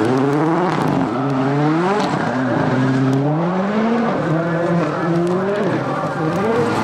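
World Rallycross Supercar's turbocharged four-cylinder engine running hard, its revs climbing and falling several times in succession as the driver shifts and lifts through the corners.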